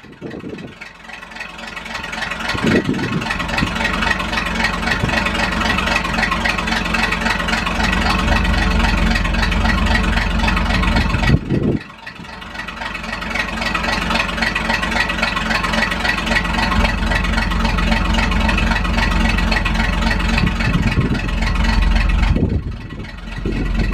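The V6 engine of a 1961 GMC truck running just after its first start out of winter storage. It runs steadily, with sharp drops in level about 12 seconds in and near the end that build back up within a couple of seconds.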